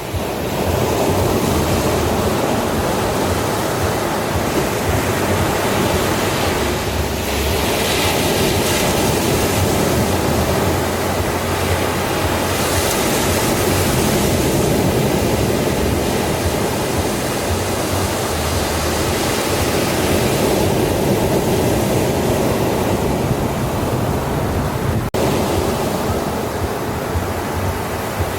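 Ocean surf rushing steadily onto a beach, swelling a little about a quarter of the way in and again near the middle, with a momentary dropout near the end.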